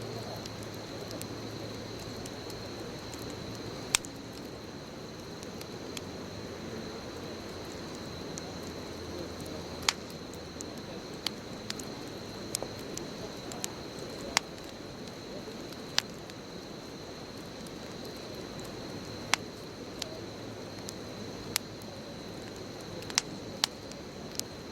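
Wood bonfire burning: a steady low rush of flames, broken every few seconds by sharp crackles and pops from the burning wood.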